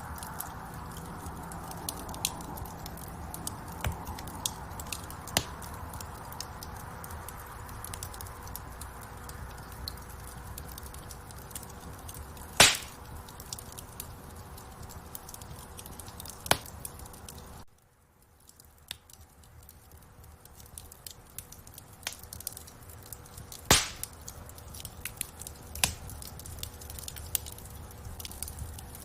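Wood fire crackling in a fireplace: a steady low rush dotted with many small snaps, and a few loud pops, the loudest about 13 and 24 seconds in. The whole sound drops away suddenly for a moment a little past halfway, then builds back.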